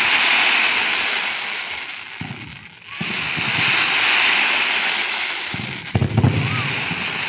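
Fireworks: volleys of rising fireworks with sparkling tails hissing loudly in three long rushes, with a few thumps about six seconds in.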